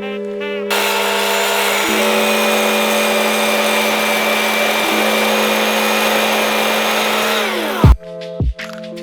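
Background music with held chords over a chainsaw running steadily at full throttle, which winds down near the end and is followed by a sharp beat in the music.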